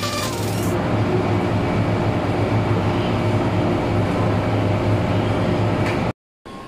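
Steady rumble of a running Hong Kong MTR train, heard from inside the carriage, with a low steady hum under it; it cuts off abruptly near the end.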